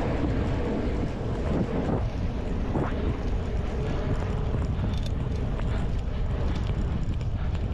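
Wind rushing over the microphone of a camera on a moving bicycle: a steady low rumble with road noise from the bike's tyres and passing traffic.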